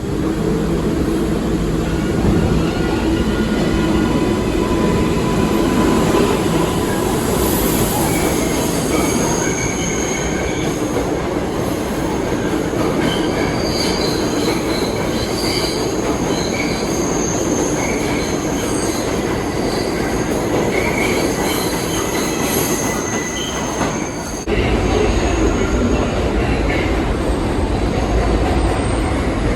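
New York City subway train running on the rails at speed: a steady rumble with high wheel squeal through curves. About 25 s in, the low rumble suddenly gets louder.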